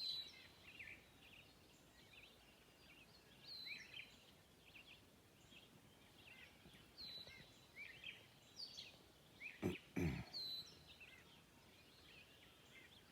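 A bird singing short, high, repeated phrases every few seconds. Two low thumps close together about ten seconds in.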